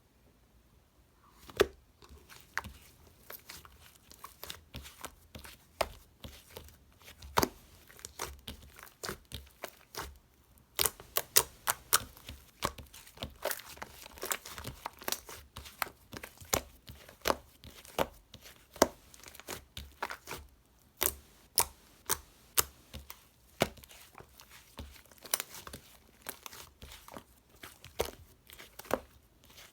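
Slime being kneaded, pressed and stretched by hand, giving many irregular sharp sticky pops and crackles, with a brief lull about ten seconds in.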